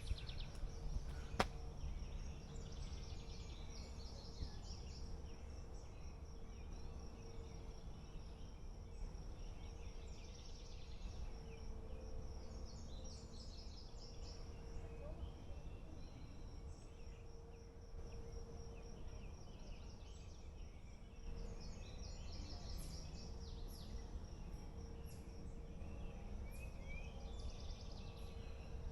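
Woodland ambience: birds singing with quick, high chirps and trills, over a low rumble and a faint steady hum. A single sharp click about a second and a half in.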